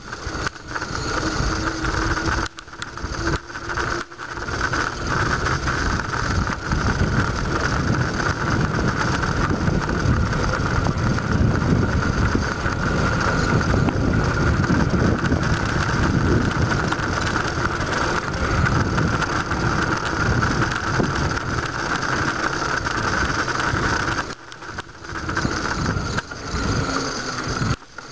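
Wind buffeting the microphone and tyre noise from a bicycle rolling along a road, with a steady high whirr above the rumble. Louder through the middle, easing off a few seconds before the end.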